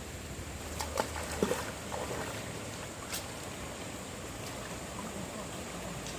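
Flowing stream water, a steady rushing, with a few short knocks in the first few seconds.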